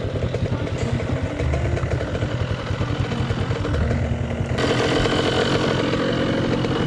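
Two-stroke dirt bikes idling. The engine sound gets louder and fuller about four and a half seconds in.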